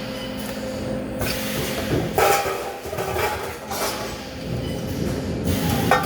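Workshop noise: a steady machine hum with sharp metal knocks, one about two seconds in and one near the end.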